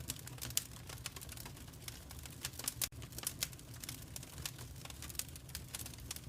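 Wood fire crackling and popping in a fireplace: irregular sharp pops and snaps over a steady low rumble of flame, with a few louder pops, the loudest about half a second in.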